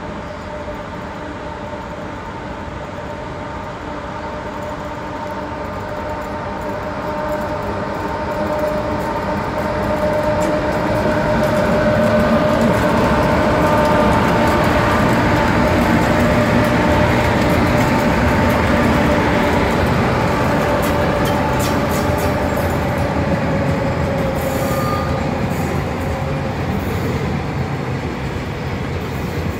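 Spoornet class 18E electric locomotives hauling a train of tank wagons approach and pass close by: a steady, multi-tone whine over a rumble grows louder through the first dozen seconds, then slides slightly lower in pitch as the locomotives go by. The tank wagons follow, rolling past with sharp wheel clicks near the end.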